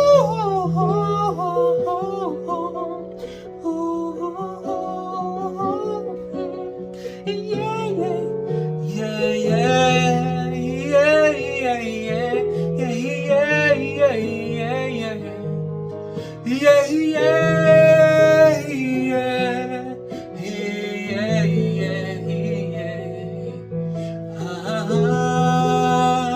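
A man singing wordless, wavering and gliding vocal sounds as a voice exercise for building resonance, over steady backing music.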